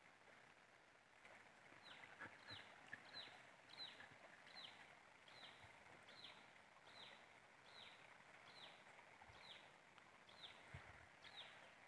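A bird calling over and over, faint, with short notes that slide down in pitch. The calls come a little more than once a second, starting about two seconds in.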